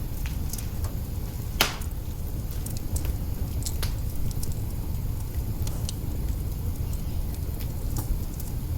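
Wood fire burning in an open hearth: a steady low rumble with scattered sharp crackles and pops, the loudest one about a second and a half in.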